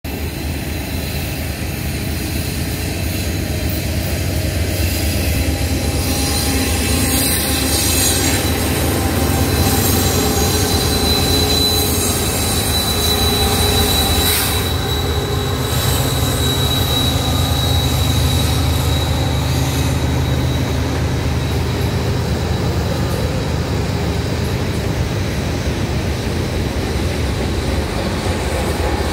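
Norfolk Southern freight train passing on a bridge, led by two diesel locomotives: their low engine rumble builds through the first ten seconds as they cross. A thin, steady high wheel squeal runs through the middle stretch, and the freight cars keep rolling behind.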